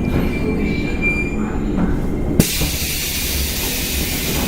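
Running noise inside a 185 series electric multiple unit's motor car: a steady low rumble of wheels and traction gear, with a thin high wheel squeal through the first second or so. About halfway in, a knock comes and a loud steady hiss starts suddenly and holds.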